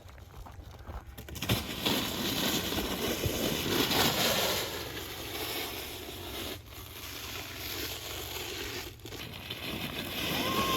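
Icy, crusted snow crunching and scraping under a sled or boots. The crunching starts suddenly about a second and a half in and goes on unevenly.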